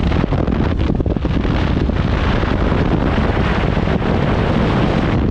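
Wind buffeting the microphone in a moving vehicle: a loud, steady rush of noise, with vehicle road noise beneath it.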